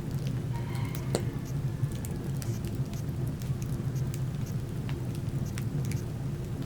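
Wood fire crackling in a fireplace, with many scattered sharp pops and snaps over a steady low rumble.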